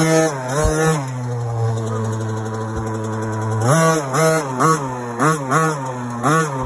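Small 50cc automatic dirt bike engine idling with quick throttle blips: two revs near the start, then a run of about six short revs in the second half, each rising and dropping straight back to idle.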